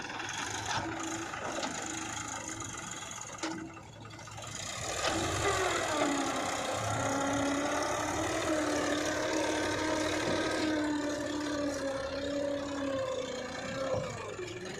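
Diesel engine of heavy earthmoving equipment running steadily. It gets louder from about four seconds in, its pitch dropping and then holding as it works under load.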